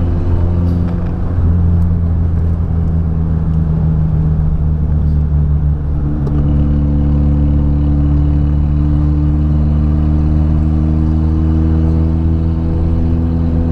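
The Gilf MK1's engine running steadily at low, even revs while driving. Its pitch creeps up slightly in the second half.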